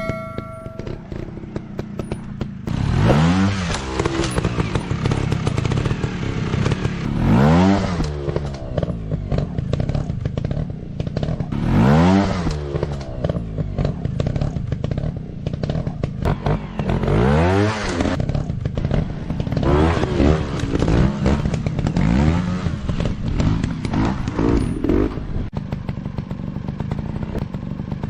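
Dirt bike engines running and revving again and again, each rev a rising sweep in pitch, every few seconds, over a constant clatter and scraping.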